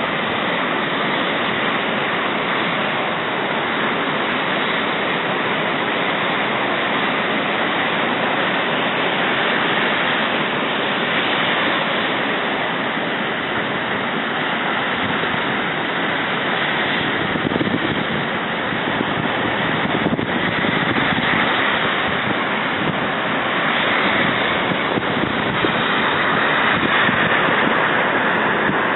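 Blizzard wind blowing hard and buffeting the microphone: a steady rushing noise that swells a little near the end.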